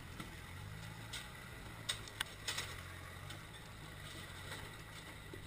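Off-road 4x4's engine running steadily at low revs as it crawls over rocks, with a few sharp clicks about two seconds in.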